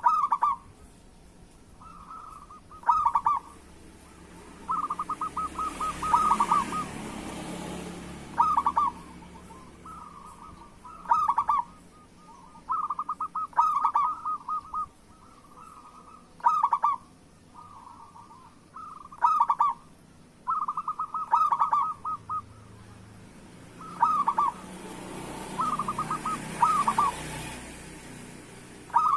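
Zebra dove (perkutut) cooing in repeated phrases, each a quick run of soft pulsed notes, coming every one to three seconds. A soft rushing noise swells and fades twice behind it.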